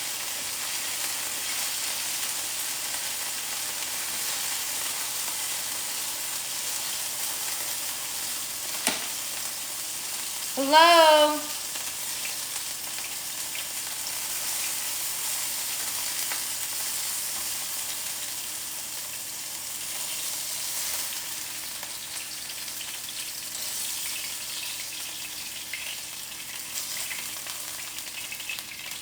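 Chicken tenderloins frying in olive oil in a skillet: a steady sizzle throughout, with a single click about nine seconds in.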